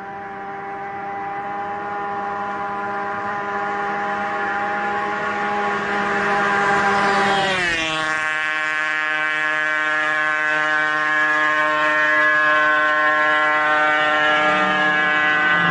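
Kawasaki Ninja two-stroke motorcycle engine running with a steady, high-pitched buzz that grows louder. About seven and a half seconds in, the pitch drops sharply, then holds steady again.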